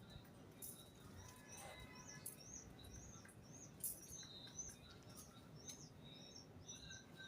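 Small birds chirping faintly, a run of short, high, arched chirps repeating about two to three times a second.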